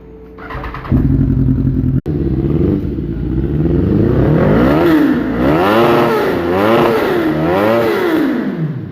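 BMW S1000RR inline-four with an aftermarket Arrow exhaust idling, then revved up and down four times in quick throttle blips from about halfway, the revs falling back near the end.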